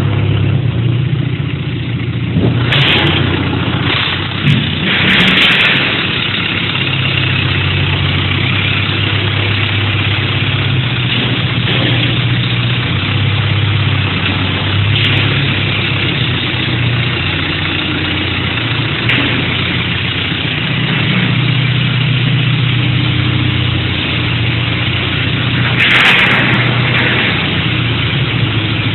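A 90 hp farm tractor's diesel engine running steadily at a low, even speed, with a few short, louder bursts of noise in the first few seconds and again near the end.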